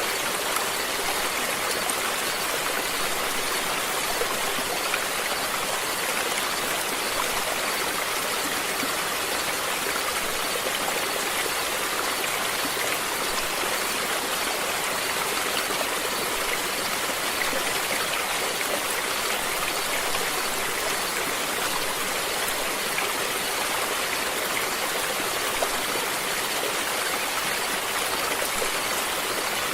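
Running water of a stream, a steady, even rush with no change.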